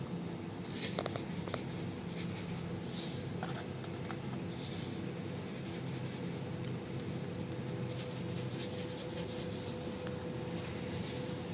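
Short scraping and rubbing sounds, several in a row with a few light clicks, over a steady low hum.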